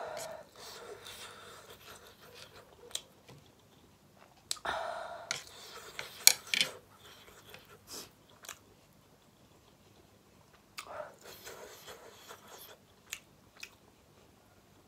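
A person chewing food close to the microphone, with wet mouth noises and sharp clicks. The loudest bursts of chewing come about five to seven seconds in, with another run around eleven to twelve seconds.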